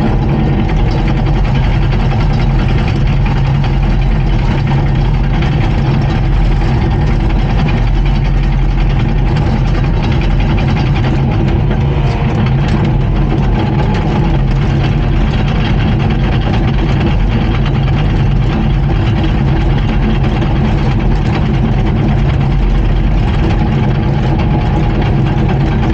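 Diesel engine of a Komatsu D39PX crawler bulldozer running steadily, with faint irregular clicks.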